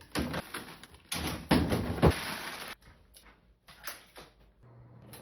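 Bottled water being put into a refrigerator: rustling and knocks of handling at the fridge, with a sharp clunk about two seconds in, then quieter scattered knocks.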